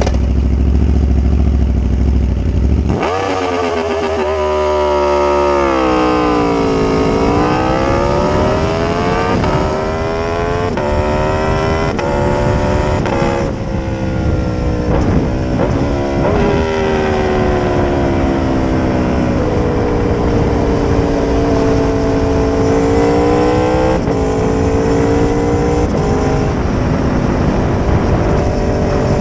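Aprilia RSV4 RF's V4 engine through an SC Project exhaust, revving and pulling through the gears. The pitch climbs and then drops suddenly at several shifts, with a steadier stretch later on. It opens with a few seconds of low steady rumble.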